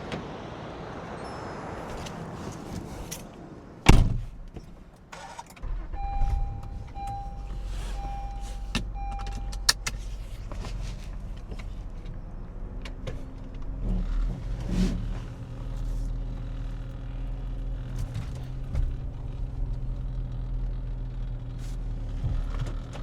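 Wind noise, then a car door shuts about four seconds in, the loudest sound. The car's engine starts and runs steadily while a warning chime sounds four times; the engine note shifts a few seconds later as the car is backed into place.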